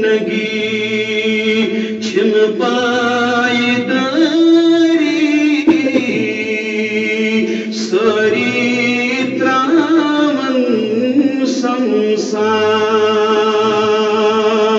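A man singing a naat unaccompanied, holding long, drawn-out notes phrase after phrase with short breaks between them.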